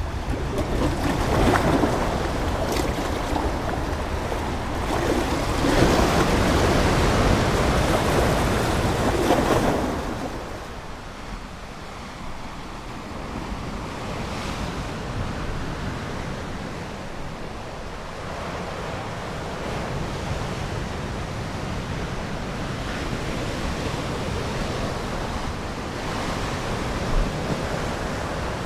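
Ocean waves: surf breaking and washing ashore, with a few bigger swells in the first ten seconds, then a softer, steadier wash.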